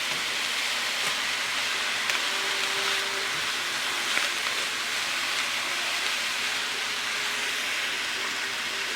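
Shredded chicken and jicama sizzling steadily in a hot wok as they stir-fry.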